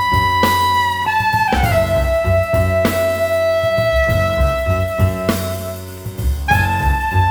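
Instrumental modern jazz: long held melody notes, sliding down to a lower note about a second and a half in, over plucked strings and a drum kit with regular cymbal strokes.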